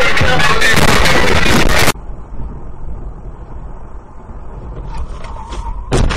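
Loud music that cuts off abruptly about two seconds in, followed by the low steady rumble of a vehicle driving. Near the end comes a single sharp loud bang: a vehicle collision.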